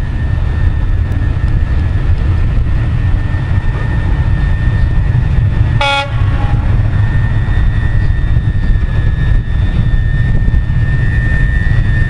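Passenger train running, heard from an open carriage window: a steady low rumble with a steady high whine above it. About halfway through, a single short train horn toot.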